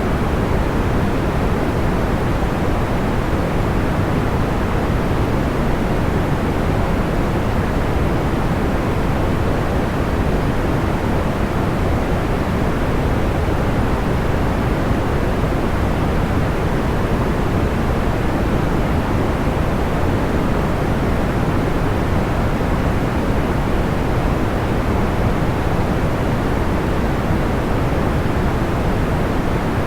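Soft, deep-toned white noise, steady and unchanging throughout.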